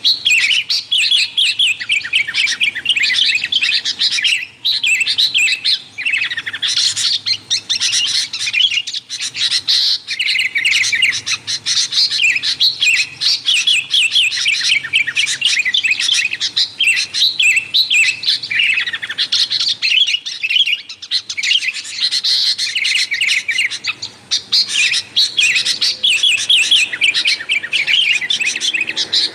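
Sooty-headed bulbul (kutilang) calling busily: rapid, bright chirps in quick runs with only short breaks.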